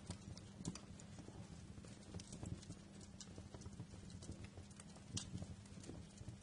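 Wood fire in a fireplace crackling, with irregular sharp pops and snaps over a low steady rumble of the flames. A louder snap comes about five seconds in.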